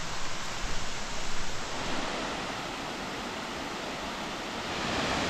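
Waterfall: a steady rush of falling water, uneven for the first two seconds and a little louder near the end.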